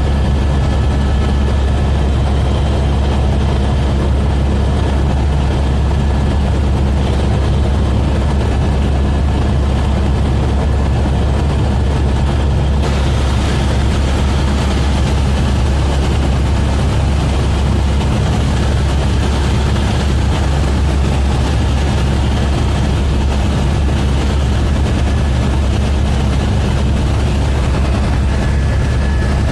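Helicopter in flight: a loud, steady, low drone of rotor and engine that does not change.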